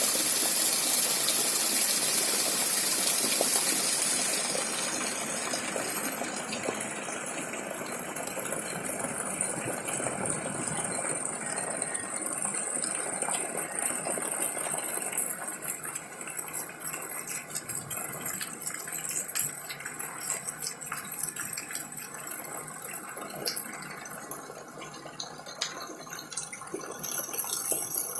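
Rain falling: a dense, steady hiss at first that thins after about five seconds into lighter rain, with many separate drops and drips heard.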